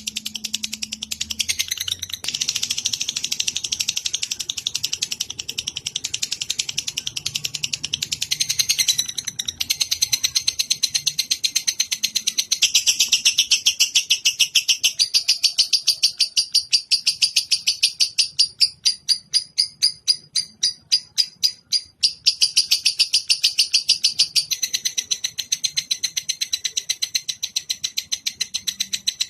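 A songbird chattering in a long, rapid string of high chirps, several a second, slowing into more separate notes for a few seconds past the middle before speeding up again.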